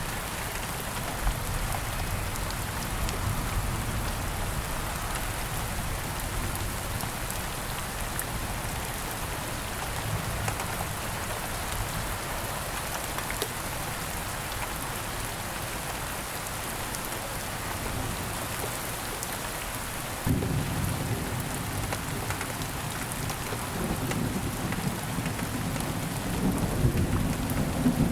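Steady rain falling, with a low rumble of thunder that sets in suddenly about twenty seconds in and grows louder toward the end.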